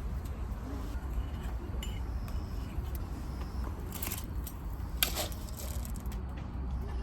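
Two sharp clinks of metal cookware or utensils, about four and five seconds in, the second louder, over a steady low rumble.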